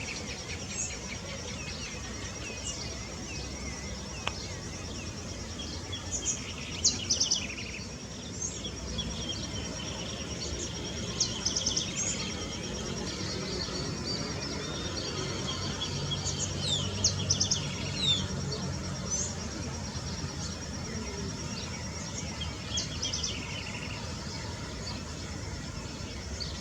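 Small birds chirping and twittering in short, scattered calls, over a steady high-pitched insect trill and low background noise.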